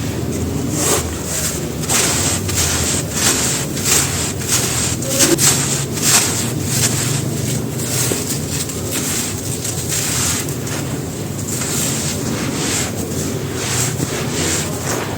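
Dry, dusty sand-cement crumbling and crunching: a dense, irregular run of gritty crackles.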